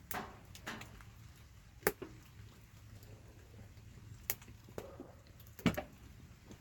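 Faint scattered clicks and taps, about five spread over several seconds, over a low steady hiss.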